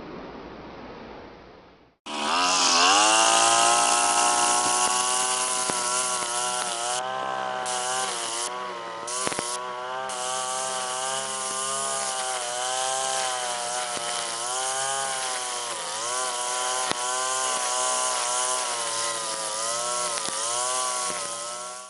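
A motor-driven power tool or small engine comes in suddenly about two seconds in and runs loud and steady. Its pitch dips and recovers again and again, as a tool's does when it is loaded.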